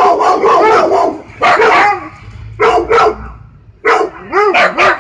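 A dog barking repeatedly and loudly, in quick runs of several barks with short pauses between them.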